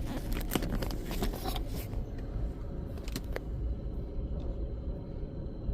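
Low steady rumble inside a car's cabin as the car idles in neutral, with a few short clicks and rattles in the first two seconds.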